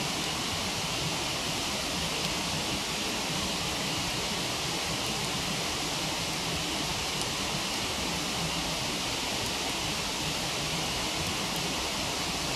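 Steady rushing of a waterfall, even and unbroken, with a few faint crackles from a wood campfire.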